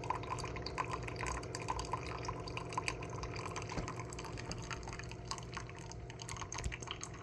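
Spinn coffee maker dispensing brewed coffee into a cup, a dripping, trickling stream of liquid over the machine's steady low hum.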